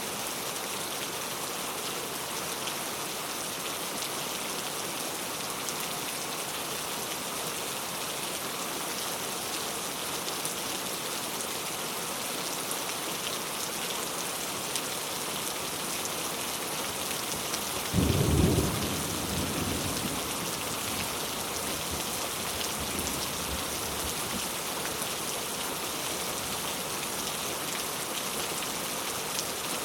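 Heavy rain falling steadily, with a single sudden thunderclap about two-thirds of the way in that rumbles off over a few seconds.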